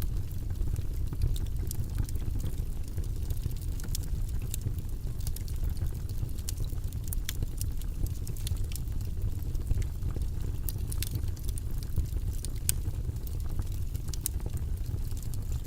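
Steady, low rumbling noise-track ambience with small crackles and clicks scattered irregularly through it.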